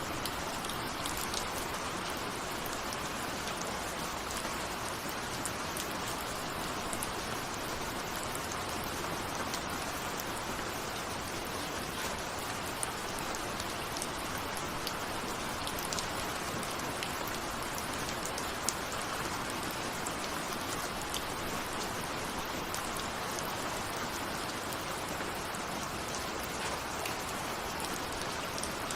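Steady rain, with scattered individual drops ticking sharply against a window.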